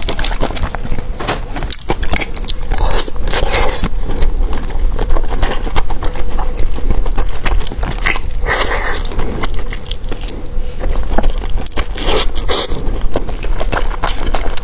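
Close-miked eating: biting into and chewing a rice-paper roll of chewy noodles, a steady run of wet, sticky mouth clicks with three louder bites or slurps.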